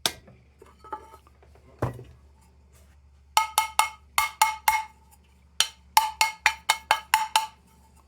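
Two quick runs of light metallic taps, each strike ringing briefly at a fixed pitch: about five, then about nine, roughly four a second, after a single click and a knock.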